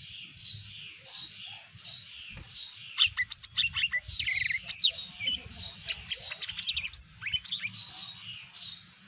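Cucak ijo (green leafbird) singing: a steady run of short repeated chirps, then about three seconds in a loud, rapid, varied phrase of sharp notes and quick rising and falling whistles that lasts about five seconds, over a faint low hum.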